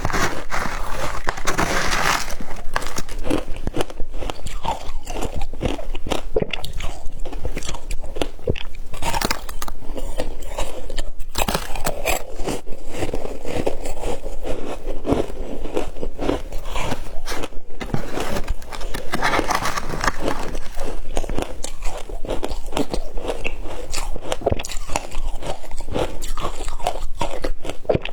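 Shaved ice being bitten and chewed close to the microphone: dense, continuous crunching that runs without pauses.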